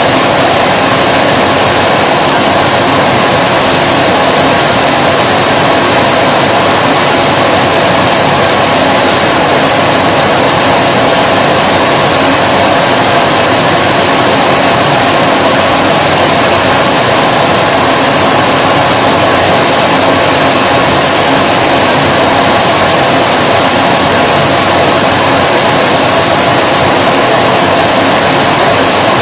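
Vacuum cleaner running steadily: a constant motor whine over a loud rush of airflow.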